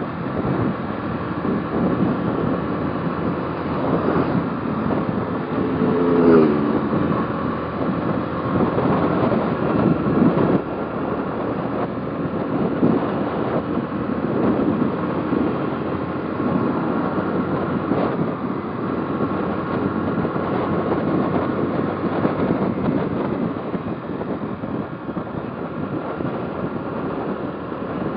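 Motorcycle riding along, engine running under steady road noise and wind buffeting the microphone. A brief wavering tone shows up about six seconds in.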